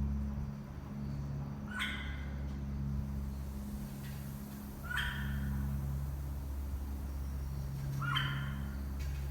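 Bali myna giving three short calls, about three seconds apart, over a steady low hum.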